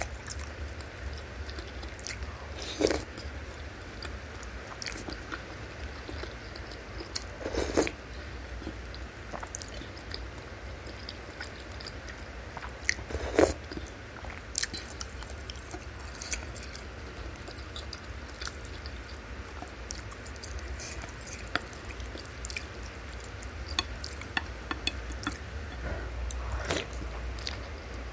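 Close-miked wet chewing and eating of beef meatballs, tendon and fat in broth, with many small mouth clicks and smacks. A few louder sharp sounds come several seconds apart, over a steady low hum.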